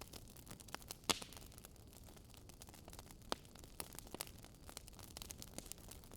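Burning wood fire crackling: irregular sharp pops and ticks over a faint hiss, with a louder pop about a second in and another at about three seconds.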